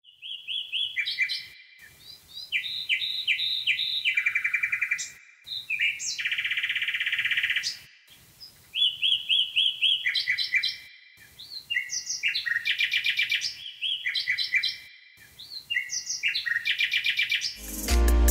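A songbird singing in repeated phrases of clear whistled notes alternating with rapid buzzy trills. Music with a low bass line comes in just before the end.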